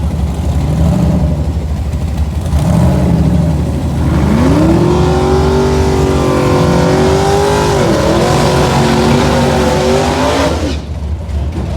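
Drag car's twin-turbo LS V8 revving twice, then launching at full throttle: the engine note climbs and holds, dips once partway through, climbs again, then stops abruptly near the end.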